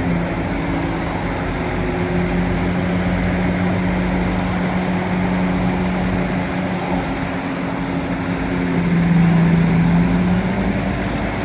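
Bulldozer's diesel engine running steadily. Near the end its note drops slightly and grows louder for a second or so.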